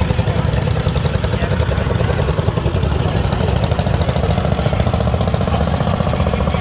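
Small garden tractor engine running steadily at a constant speed.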